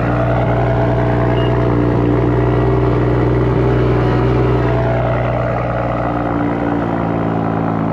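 BMW M340i's turbocharged 3.0-litre inline-six running steadily through its M Performance exhaust, a deep even exhaust note. It sounds good.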